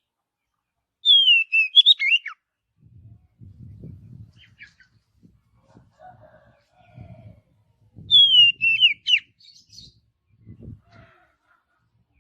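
Oriental magpie-robin (kacer) singing two short phrases about seven seconds apart, each a falling clear whistle broken into quick wavering notes. Faint low rustling between the phrases.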